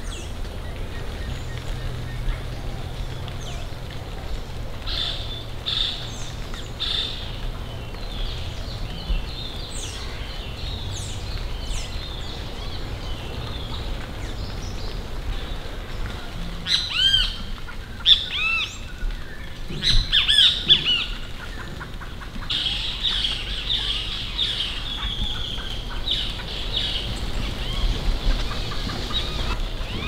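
Birds calling in tropical forest. A few short high notes come early. A little past halfway there is a quick series of looping whistled notes, then a longer high chattering run, over a low steady rumble.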